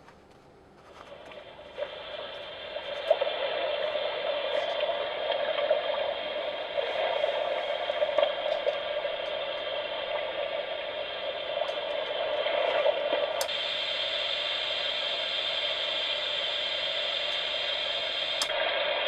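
Small white-noise sound machine playing a steady hissing noise track through its little speaker, fading in over the first few seconds. About two thirds of the way through, a click comes and the hiss turns brighter; about five seconds later a second click brings it back to its duller tone.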